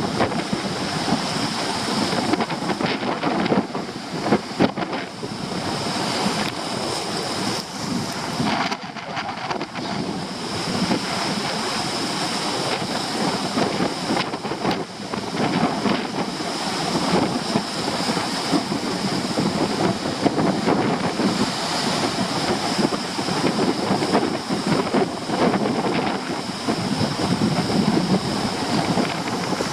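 Storm surf breaking on a rocky shore, mixed with strong wind buffeting the microphone in a steady, continuous rush.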